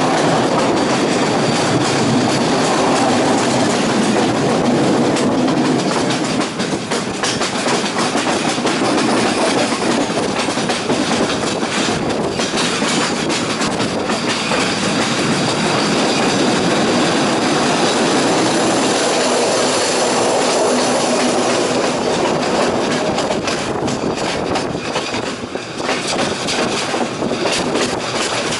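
Passenger train running along the track, heard from inside the carriage: a steady rumble of wheels on rails with frequent clacks over the rail joints.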